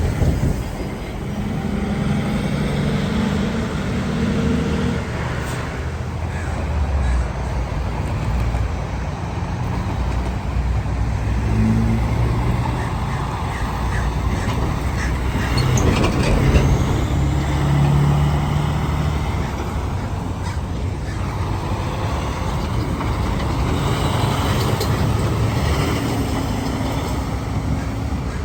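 Road traffic with big rigs driving past, their diesel engines running as one vehicle after another goes by.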